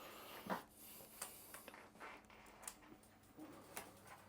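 Near silence with a few faint, scattered clicks and light handling noises.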